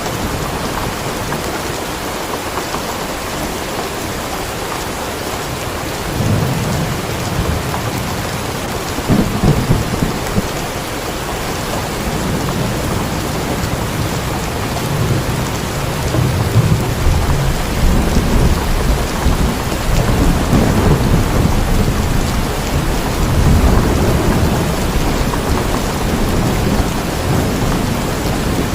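Steady heavy rain, with low rolling thunder rumbling underneath that swells in and out and grows stronger in the second half.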